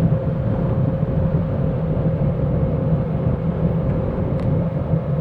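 Steady howling whine from a 2007 Saturn Vue's rear differential over a low road rumble while driving, which the owner suspects comes from bad differential fluid.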